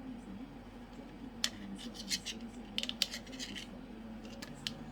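Cockatoo biting and tearing at a toy with its beak: a quick run of sharp snips and clicks in the middle, and two more near the end.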